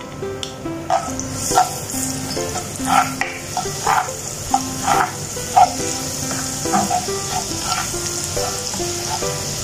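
Minced garlic sizzling steadily in hot cooking oil in a nonstick frying pan as it is sautéed and stirred with a spatula; the sizzle builds up about a second and a half in. Background music with a simple melody plays over it.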